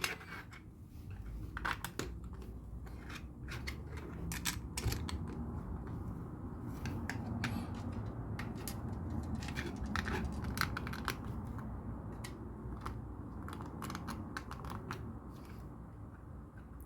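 Small plastic LEGO pieces clicking and rattling as they are handled and pressed together, in irregular sharp clicks over a low rumble of handling on the table.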